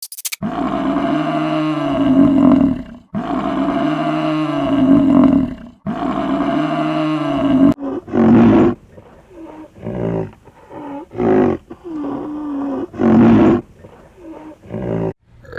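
A big cat roaring: three long roars, then a run of shorter, choppier roars from about halfway through.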